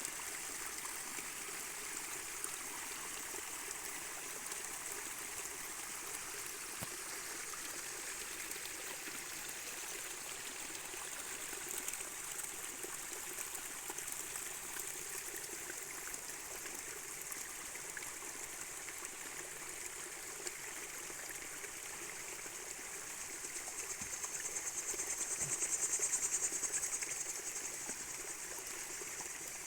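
A stream trickling and running over rocks, steady throughout. Near the end a high, pulsing buzz swells for a few seconds and fades.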